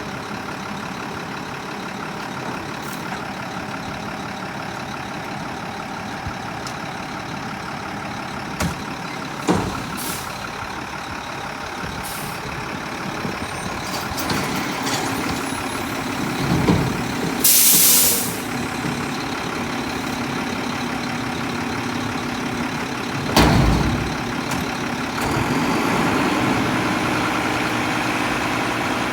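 Mack front-loader garbage truck with a Heil body running, its engine note firming up partway through. A loud burst of air hiss comes about seventeen seconds in, and a few sharp metallic bangs are scattered through.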